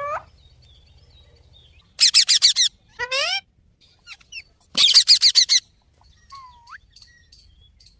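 Parrot calling: a burst of rapid shrill chirps about two seconds in, a rising call just after, another rapid shrill burst about five seconds in, and a soft whistle near the end.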